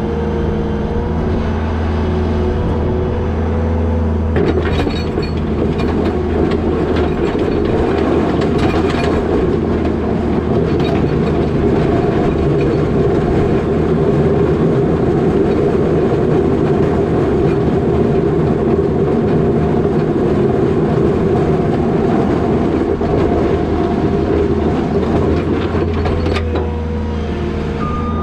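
Skid steer diesel engine running under load while pushing wet snow with a box plow. About four seconds in, the steady engine note gives way to a heavier, noisier working sound with some clatter, and it settles back to a steadier engine note near the end.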